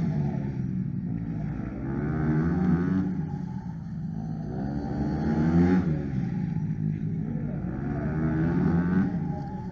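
Motorcycle engine revving up and dropping back repeatedly, its pitch sweeping up and falling about every three seconds, with the sharpest rise a little before six seconds in.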